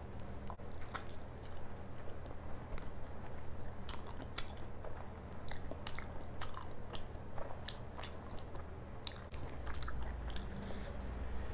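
Close-up chewing of a mouthful of paratha, with frequent sharp, irregular wet mouth clicks and smacks over a steady low hum.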